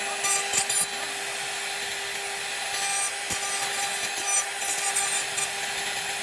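CNC router spindle running at a steady pitch while its bit cuts wood, giving a constant rasping hiss with a few short clicks.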